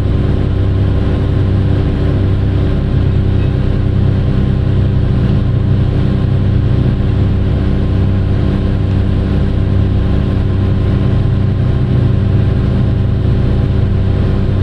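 Large diesel engine of heavy mining equipment running steadily at a constant speed.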